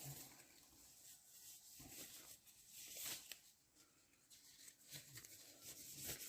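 Near silence: room tone with a few faint taps and rustles.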